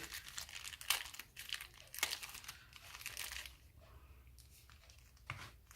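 Packaging rustling and crinkling in short, scattered bursts as small accessories are handled and unpacked from their box, busier in the first few seconds and then sparser.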